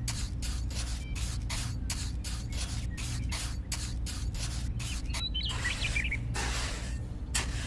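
A rapid, irregular run of short hissing bursts, a few a second, over a steady low hum.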